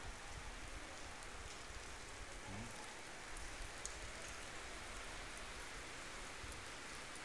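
Steady rain falling on a street, an even hiss with a few faint sharp drip ticks.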